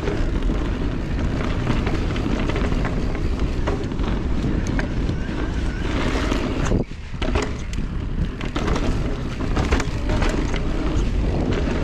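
Wind buffeting the microphone over the rumble of an e-mountain bike's tyres on a dirt trail, with frequent clicks and rattles from the bike. There is a brief lull about seven seconds in.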